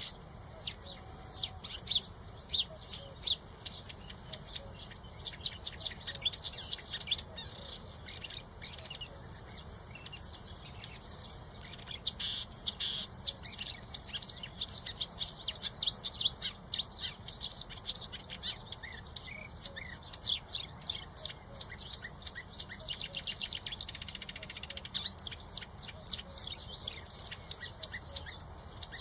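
Small birds chirping: a rapid stream of short, high-pitched chirps, thickest in the middle and again near the end.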